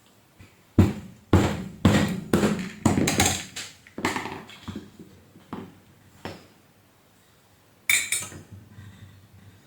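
Sharp metal knocks and clinks as parts of a vacuum cleaner motor are worked on at the bench: a quick run of strikes for about three seconds, a few more spaced out after, and a last one near the end.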